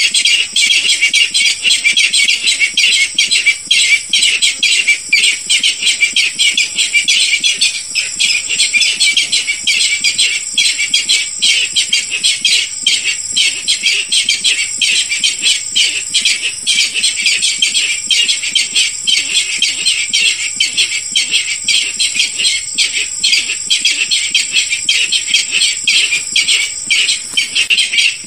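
Recorded calls of the barred rail, played as a hunting lure call: a loud, fast, unbroken series of high notes.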